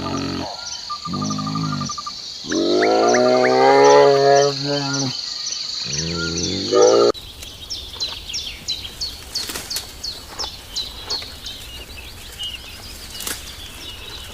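Four long, low animal calls, the third the longest and loudest, with a steady high ticking behind them. About halfway through a cut brings many short, high, falling bird chirps.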